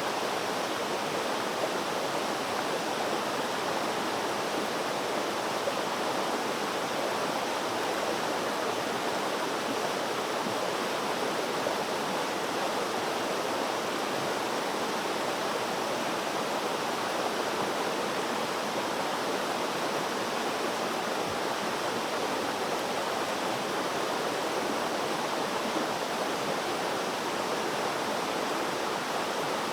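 Flowing water running steadily, an even rushing sound of a stream or small cascade with no change throughout.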